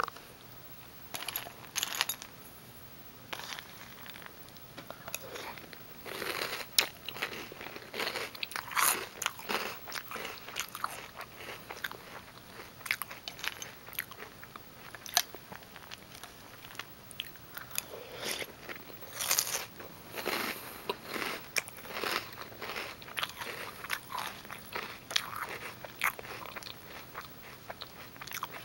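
A person chewing crunchy Reese's Peanut Butter Puffs cereal: an irregular run of sharp crunches and bites.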